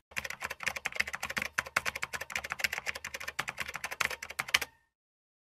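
Rapid computer-keyboard typing, a dense run of clicky keystrokes that stops abruptly about three-quarters of a second before the end. It is a typing sound effect laid over a title card as its text appears.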